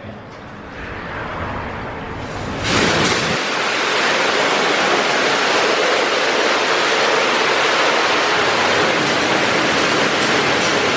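Car wash spray jets starting up with a sudden rush of water about three seconds in, then spraying steadily.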